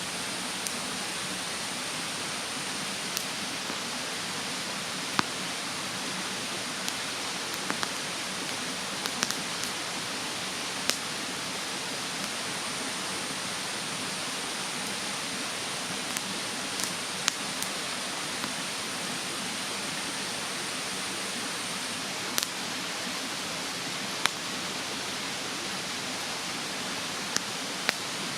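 Wood fire in a fire stand crackling, with scattered sharp pops, over the steady rush of a mountain stream. A thin, high, steady insect drone sounds along with them and stops about three-quarters of the way through.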